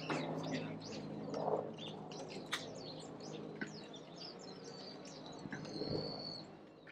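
Small birds chirping: a dense run of short, quick high calls throughout, with one longer held whistle about a second before the end.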